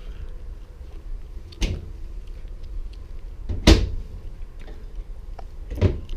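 RV kitchen cabinet doors being opened and shut: three sharp knocks about two seconds apart, the middle one loudest.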